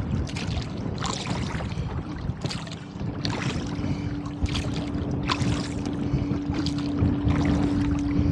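Gusty wind buffeting the microphone on a rowboat, with water splashing and slapping in uneven bursts about once a second. A steady low hum comes in about three seconds in.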